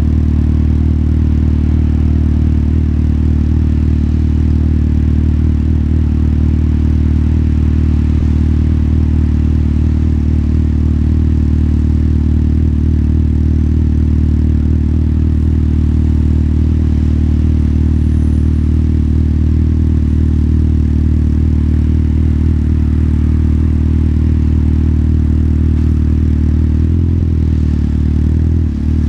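Motorcycle engine running steadily at one engine speed: a low, even note that does not rise or fall. Just before the end it wavers and dips briefly.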